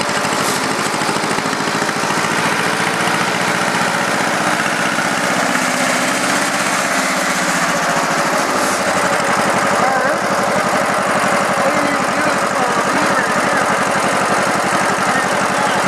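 John Deere M tractor's two-cylinder engine running on wood gas from a gasifier, with a steady rapid firing rhythm. Its low note shifts a little about halfway through.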